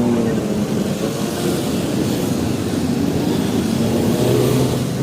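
Motorcycle engine running at road speed under wind noise, its pitch rising briefly at the start and then holding steady.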